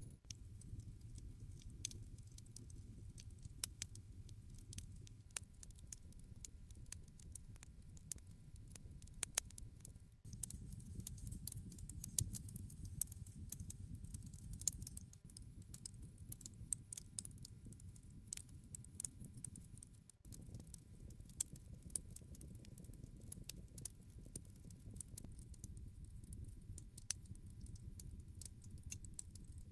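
Wood campfire crackling: irregular sharp pops and snaps over a low, steady rumble of burning. The rumble steps up or down abruptly a few times.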